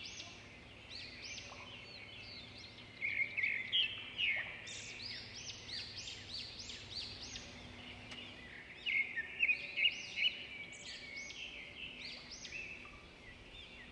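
Birds chirping: many short, quickly repeated chirps from several birds overlapping, swelling louder twice, about three seconds in and again about nine seconds in.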